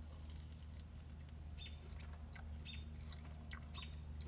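Quiet chewing of a sauced chicken nugget, with faint short bird chirps from outside and a steady low hum underneath.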